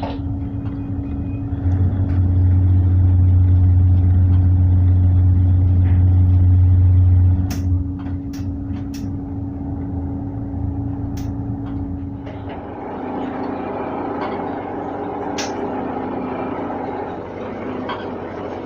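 Tugboat's diesel engine running, throttled up for about five seconds as the tug goes astern, then easing back to a lower drone. A few sharp knocks are heard while it runs.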